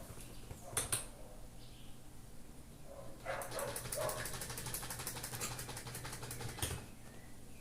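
Electric fan running with a steady low hum, and a fast clicking rattle, several clicks a second, for about three and a half seconds in the middle.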